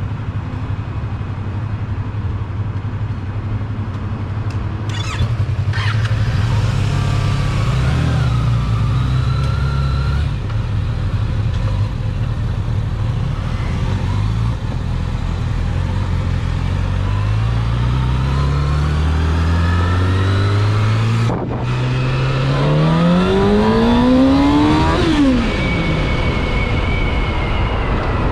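Sport motorcycle engine idling at first, then pulling away and accelerating, its pitch climbing and breaking off at gear shifts, about 21 seconds in and again near 25 seconds.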